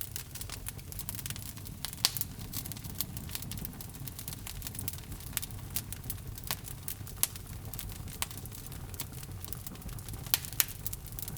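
Log fire burning in a fireplace: steady crackling, many sharp pops and snaps over a low rumble of flame, with a few louder pops about two seconds in and near the end.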